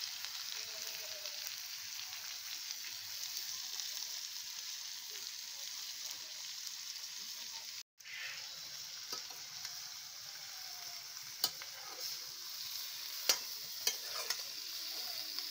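Chopped green capsicum frying in a steel kadhai over a wood fire: a steady sizzle, with a ladle stirring through it. The sizzle drops out for an instant about halfway, and a few sharp clicks of the ladle against the pan come in the second half.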